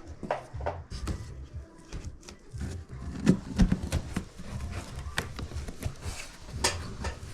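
Irregular clicks and knocks with a few low thumps, loudest about three and a half seconds in, from hands handling objects.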